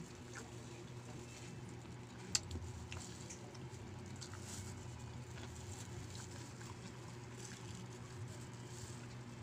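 Faint chewing of crunchy raw vegetables, with scattered small clicks and one sharper click about two seconds in, over a low steady hum.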